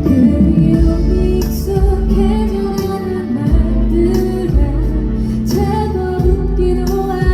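Live Korean pop ballad played through a concert PA: a woman singing long, sliding notes over amplified accompaniment with a steady bass and cymbal strikes.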